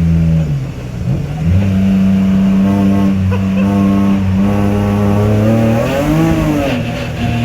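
The E46 M3's 3.2-litre straight-six (S54) running hard in a track car, heard from inside. The revs dip and pick up again in the first second and a half, hold high and slowly climb, then briefly swing up and back down near the end.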